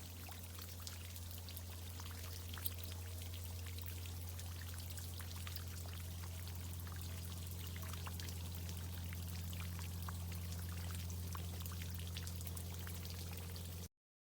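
Water pouring and splashing from a tree-watering irrigation system, with many small drips pattering, over a steady low hum. It all cuts off suddenly near the end.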